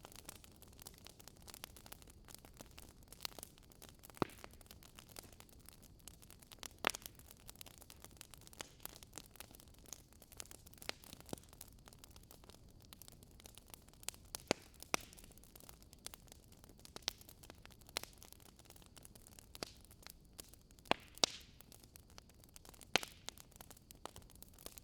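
Wood fire burning in a fireplace: logs crackling with irregular sharp pops and snaps over a faint steady hiss, a few louder pops scattered through, the loudest near the end.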